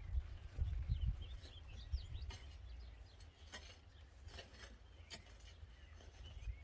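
Small birds chirping in quick, short calls during the first couple of seconds, with a few sharp clicks scattered through the rest and a low rumble at the start that fades.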